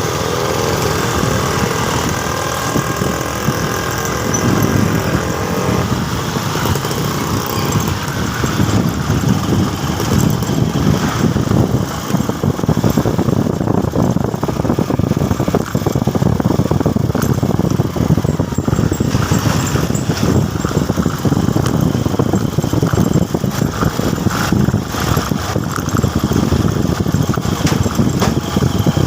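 Motorcycle engine running steadily while being ridden on the road.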